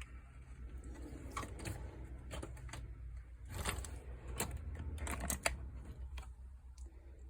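Hand tools being handled in a toolbox drawer: a run of sharp metal clicks and clatter from about a second in to about five and a half seconds, over a steady low hum.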